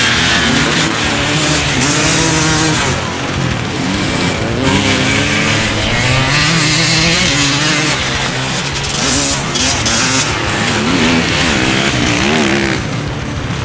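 Motorcycle engines racing, their pitch rising and falling again and again as the riders rev up and change gear.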